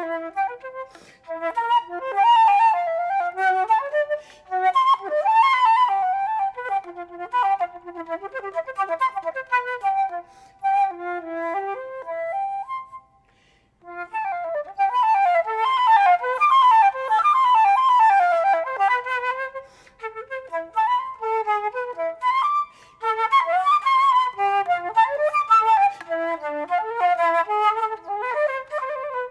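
Flute playing a fast melody of quick runs and wide leaps, with a short break about 13 seconds in.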